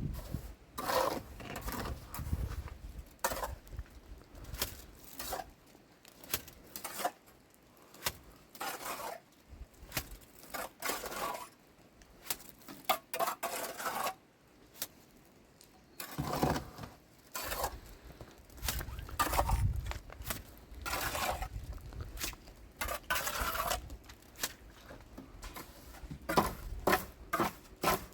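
Irregular clinks, knocks and scrapes of small hard objects being handled, like dishes or utensils.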